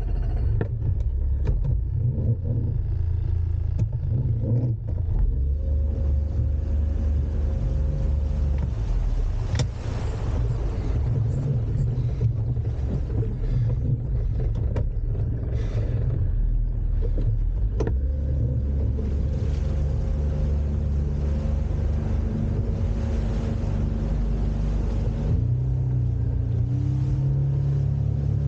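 Boat engine running steadily under way, a low rumble; its note steps up slightly about 25 seconds in.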